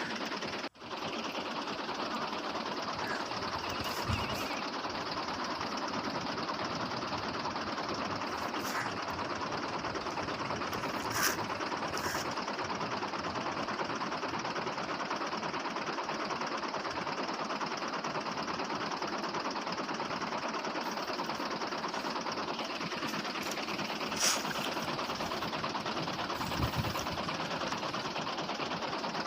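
Small motor running steadily with an even whir, cut off for a moment less than a second in, with a few light clicks over it.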